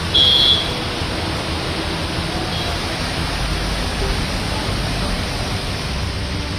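Steady wash of heavy rain and road traffic on waterlogged streets. A short, loud, high-pitched beep sounds a moment in and lasts about half a second.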